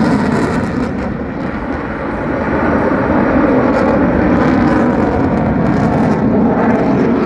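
Aircraft engine noise from an airshow flypast, a loud steady rush that grows a little louder about two and a half seconds in and holds.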